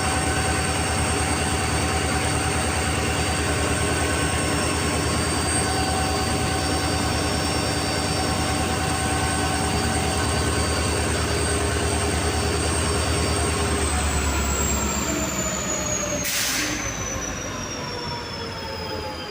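EMD WDG4D diesel-electric locomotive standing and running, its 16-cylinder two-stroke diesel giving a steady pulsing hum with a high whine above it. About 14 s in the pitch slides down and the sound gets quieter as the engine winds down, and a short hiss of air comes a couple of seconds later.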